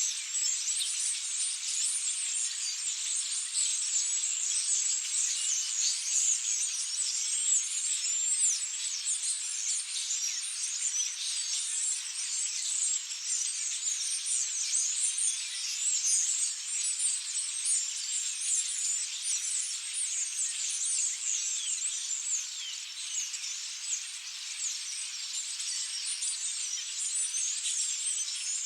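Dense, continuous chatter of a large flock of European starlings: countless overlapping high squeaks, whistles and chirps.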